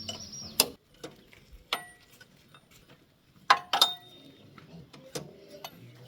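Metal engine parts and tools knocking and clinking in a few separate sharp strikes, the loudest pair about three and a half seconds in, each leaving a short metallic ring.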